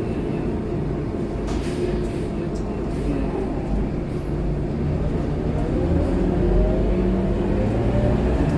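Scania K230UB city bus's five-cylinder diesel engine running under way. Its pitch and level rise in the second half as the bus accelerates.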